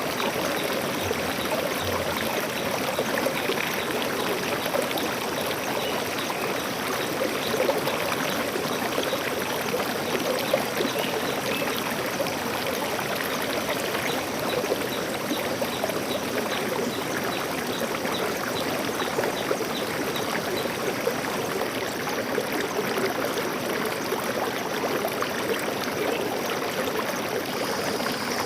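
Stream water flowing steadily, a continuous rushing with trickling.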